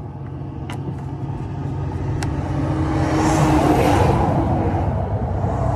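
A vehicle passing close by on the road, its noise swelling to loudest about three and a half seconds in and then fading, over a steady low engine rumble.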